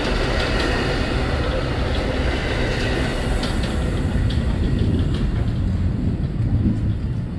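Amtrak Auto Train's railcars rolling by: a steady rumble with a few short wheel clicks through the middle.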